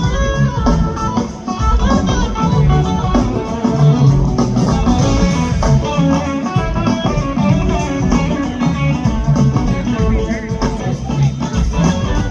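Live rock band playing an instrumental passage, with electric guitar to the fore over bass guitar.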